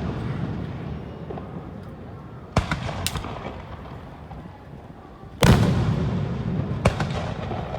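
Aerial fireworks shells bursting: a boom about two and a half seconds in, quickly followed by a sharper crack, then a louder boom about five and a half seconds in, followed by a couple of cracks. Each bang rolls on and dies away slowly.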